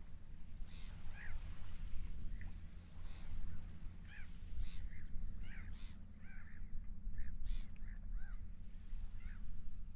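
Seagulls calling over and over in short, squawking cries, several overlapping, above a steady low rumble.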